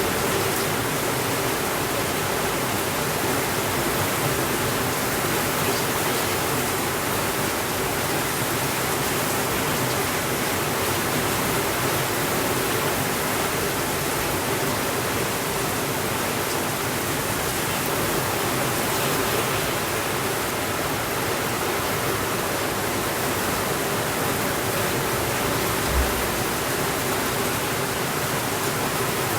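Heavy rain on a window mixed with a fireplace fire, an even steady hiss. A single soft low thump near the end.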